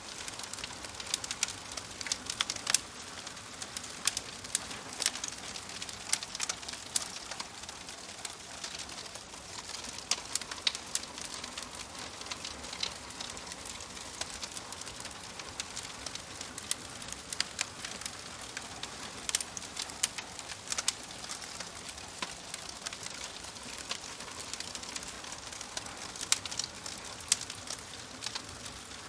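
Wood fire in a fireplace crackling and popping, sharp irregular pops over a steady soft hiss.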